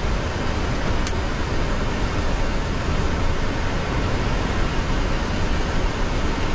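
Steady jet aircraft noise heard from the cockpit while taxiing: an even rushing hiss over a strong low rumble, unchanging throughout, with a faint click about a second in.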